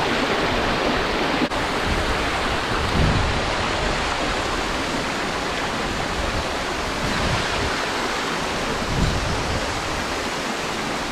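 Steady rushing of water in a mountain gorge stream, a constant full hiss that swells slightly twice.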